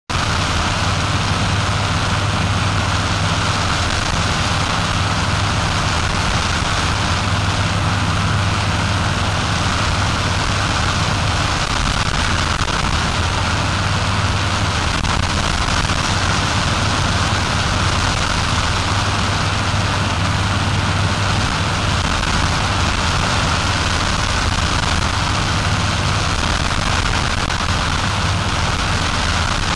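Powered paraglider's paramotor engine and propeller running at a steady speed, with a constant rushing noise over it.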